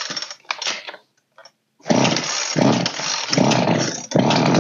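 Old Poulan chainsaw's two-stroke engine being pull-started: several quick pulls on the recoil starter, with the engine firing in short bursts and running a little longer near the end. The saw will not stay running while its carburettor idle and mixture screws are still being set.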